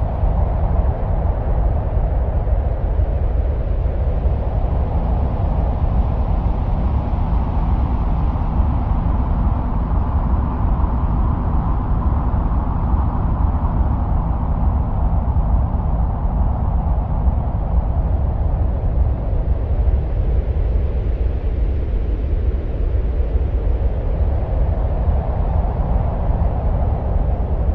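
Steady deep rumbling noise like wind, with a hissing band above it that slowly swells and fades twice: a soundscape given as the sound of Mars's winds.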